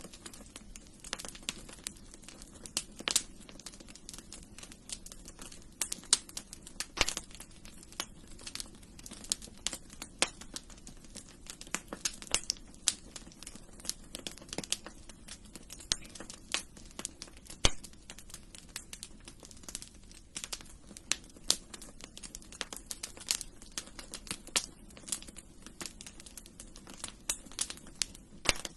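Wood fire burning in a fireplace, crackling with dense, irregular pops and snaps, a few sharper ones, over a soft low rush of the flames.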